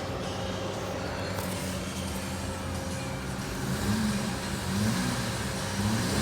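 Holden Commodore 3.6-litre V6 engine idling steadily, then blipped three times in quick succession, each rev rising and falling back about a second apart in the second half.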